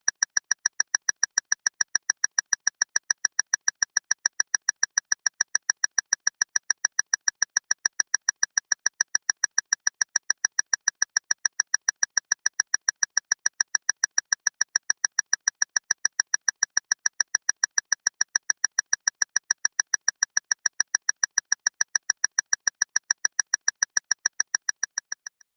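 Loud clock ticking fast and evenly, about four to five sharp ticks a second, fading out near the end.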